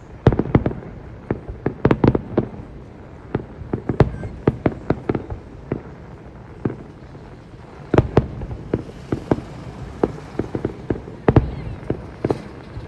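Fireworks going off in an irregular string of bangs and cracks, several a second, with louder clusters about two seconds in and again around eight seconds in.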